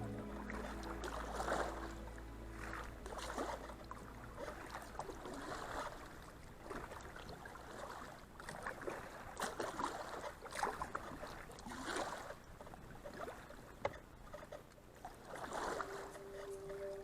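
Kayak paddle strokes: the blades dip into the river and splash about once a second, in a steady rhythm, with water rushing past the hull.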